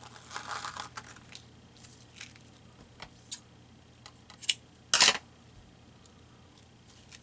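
Paper and craft materials being handled on a desk: a short rustle, a few light clicks, and a brief, louder crackle about five seconds in.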